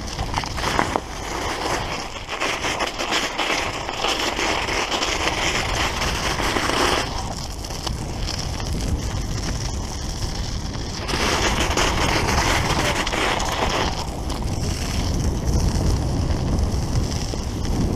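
Wind rushing over the microphone and the tyres of a Start Shosse road bike rolling and crunching over snow while riding, with a steady low rumble and stretches of brighter hiss that come and go.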